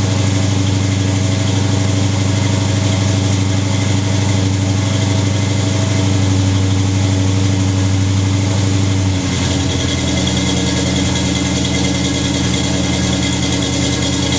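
A 1968 Pontiac Beaumont's 350 cubic-inch V8 idling through Thrush welded mufflers and an X-pipe exhaust on a cold start after winter storage. About nine seconds in, the idle note drops and settles lower.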